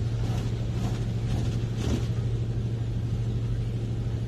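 Steady low mechanical hum with a faint even hiss, heard from inside a car's cabin in an automatic car wash while the car sits between wash stages.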